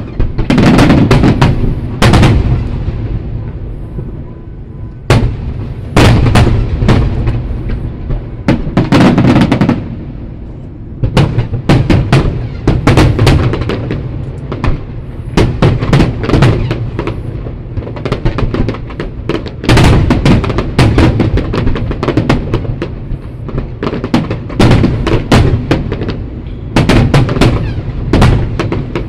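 Aerial fireworks shells bursting in rapid volleys of booms and cracks, each volley lasting a second or two with short lulls between, repeating throughout.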